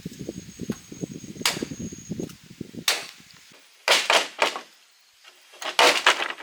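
Hand-tool work on bamboo: a quick run of low knocks, a few sharp cracks, then two short rasping bursts in the last half.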